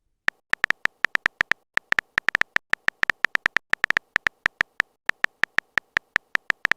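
Chat-app keyboard typing sound effect: a rapid, irregular string of short electronic clicks, about five or six a second, as a message is typed out.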